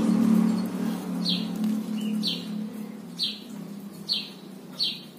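A bird calling over and over, a short high note sliding downward about once a second. Under it, a low steady hum fades away over the first three seconds.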